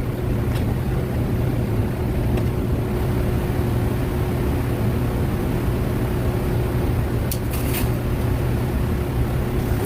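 Steady machine drone with a constant hum, and a few faint clicks.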